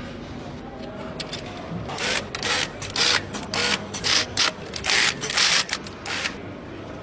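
A hand-held power tool working in short, irregular bursts, about a dozen in four seconds, over a steady workshop hum, during engine assembly.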